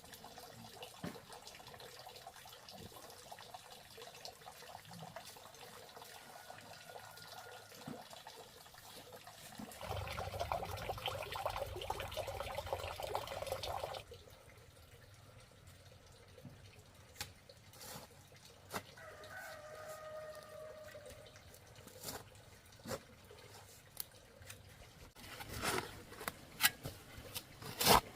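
Farmyard sounds: a few seconds of splashing or pouring water, one drawn-out animal call, then a run of sharp knocks near the end.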